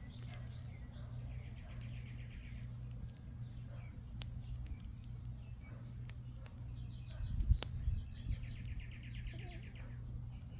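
A songbird sings two rapid trilled phrases, over scattered sharp crackles from a small campfire and a steady low hum. A dull thump about two-thirds of the way through is the loudest sound.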